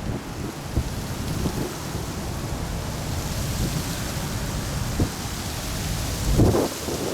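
Strong gusty wind buffeting the microphone, an uneven low rumble with a sharper gust near the end.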